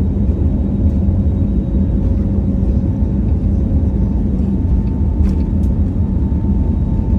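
Steady low rumble of a jet airliner's engines heard inside the cabin, with a faint steady tone above it, as the plane gets ready to take off.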